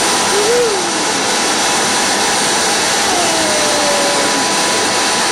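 Shop vac running steadily: a loud, even rushing noise with a fixed whine through it.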